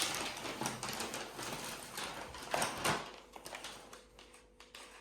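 Irregular small clicks, taps and rustling, as of objects being handled, with a louder clatter at the start and again about two and a half seconds in.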